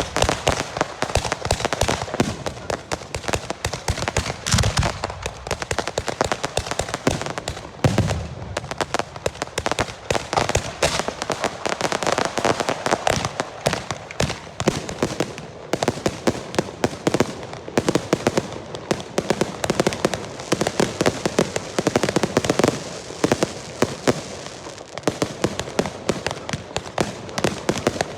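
Portuguese girândola fireworks: volleys of festival rockets going off in a rapid, continuous crackle of bangs, with a few deeper booms about five and eight seconds in.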